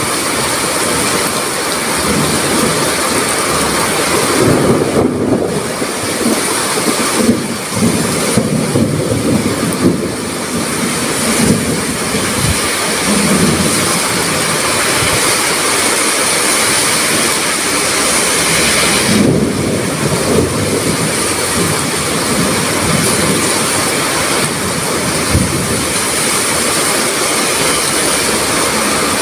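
Heavy rain pouring steadily, with low rumbles swelling and fading several times over it from thunder and gusting wind.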